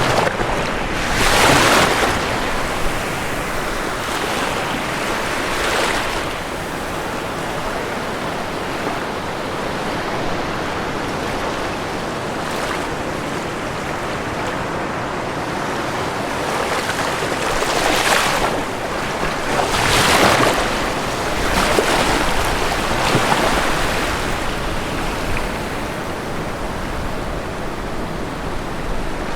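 Ocean waves breaking on a shore: a steady wash of surf, with several waves cresting louder, one about a second and a half in and a cluster around twenty seconds in.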